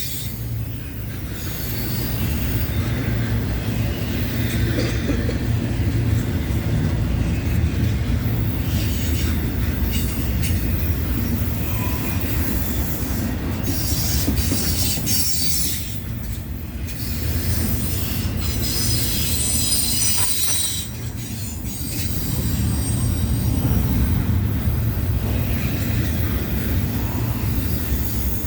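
Norfolk Southern freight train's cars rolling past with a steady low rumble, and high-pitched steel wheel squeal coming and going over it.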